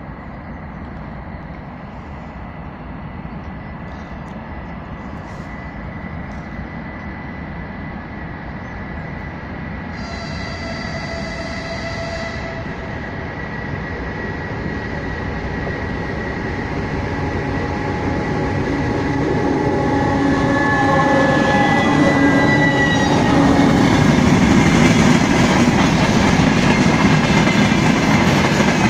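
2TE116 twin-section diesel locomotive hauling a freight train, approaching and growing steadily louder, with a horn blast of about two and a half seconds about ten seconds in. The engine note drops in pitch as the locomotive passes near the end, and then the freight wagons rumble past.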